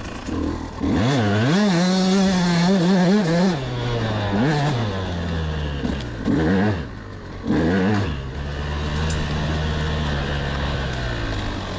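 2004 KTM 200SX single-cylinder two-stroke motocross engine being ridden: the revs climb sharply about a second in and hold high, then rise and fall in several quick throttle blips before settling into a steadier, lower run.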